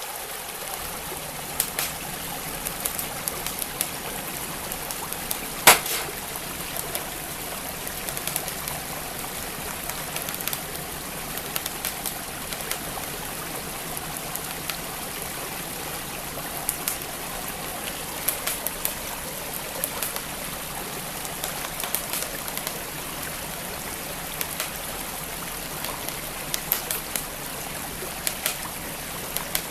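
Fireplace fire crackling with scattered sharp pops, one much louder pop about six seconds in, over the steady rush of a flowing stream.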